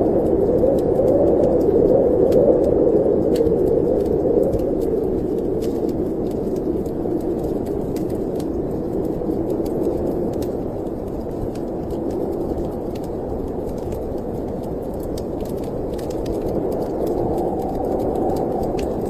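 Snowstorm wind blowing steadily, swelling in the first few seconds and then easing a little, with faint scattered crackles of a wood fire.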